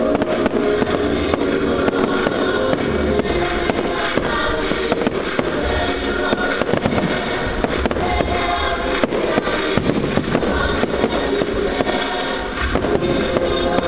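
Fireworks going off in frequent bangs and crackles over loud music playing along with the display.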